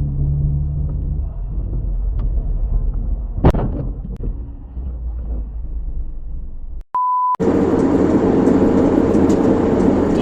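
Car driving, heard from inside the cabin: a steady low engine and road rumble, with one sharp knock about three and a half seconds in. Near seven seconds a short single-pitch beep tone sounds, and then a louder steady hiss and rumble of road noise takes over.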